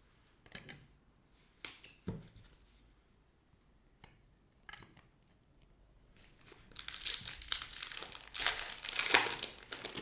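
A trading-card pack wrapper being torn open and crinkled by hand: a few short rustles, then about three seconds of loud crinkling near the end.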